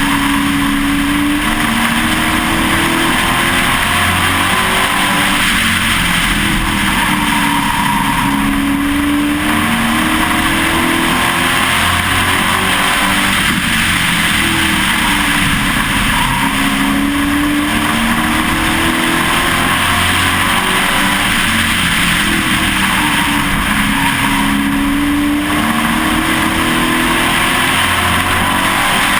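Pro Truck race truck's engine at racing speed, heard from inside the truck. It runs loud throughout, its pitch falling and rising again in a regular cycle about every eight seconds as it laps the short oval, under a steady rush of wind and road noise.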